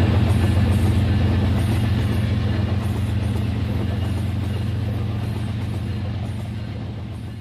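Toy train running on its track: a steady low motor hum with rattling, fading gradually.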